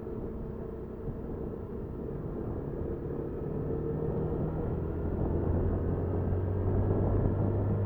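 Riding noise picked up by a dashcam on a Honda Super Cub 50: the small single-cylinder four-stroke engine's low hum under road and wind rumble, growing louder in the second half.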